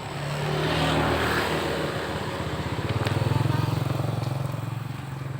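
Engine of a passing vehicle, growing louder to a peak about three seconds in and then fading away.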